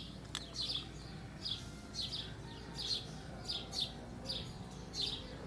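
A bird chirping over and over: short, high, falling chirps, about two a second.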